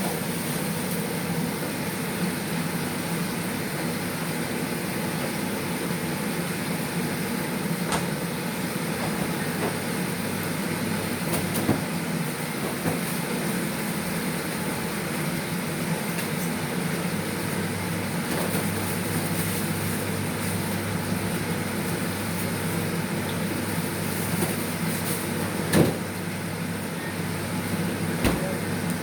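Milkfish frying in hot oil, a steady sizzle with a steady hum underneath. A few sharp knocks stand out, one of them a little before the end.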